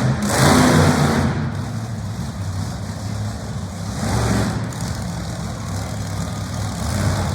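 Monster truck engine running with a steady low rumble, swelling louder twice as it is revved: once just after the start and again about four seconds in.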